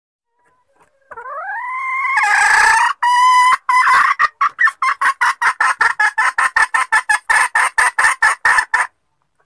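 Female junglefowl calling, a hen's lure call: a rising, drawn-out note, then a fast run of short clucking notes at about five a second that stops shortly before the end.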